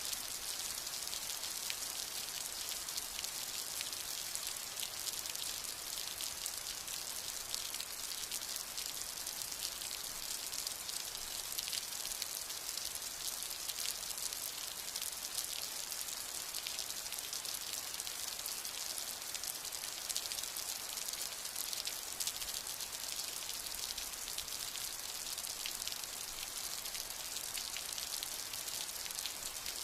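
Steady rain falling, a dense, even patter of drops with no pause or change.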